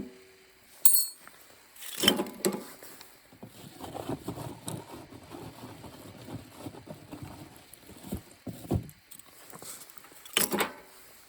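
Things being handled: a sharp metallic clink about a second in, knocks near two seconds and again near the end, and rustling and shuffling in between.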